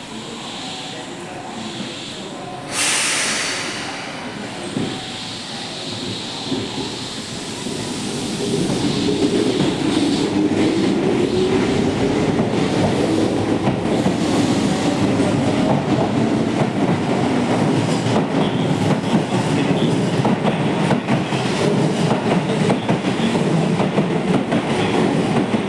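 Keihan 6000 series electric train departing: a short hiss of air about three seconds in, then from about eight seconds the train gets louder as it pulls away, its motor tone rising in pitch with the wheels clicking over the rail joints.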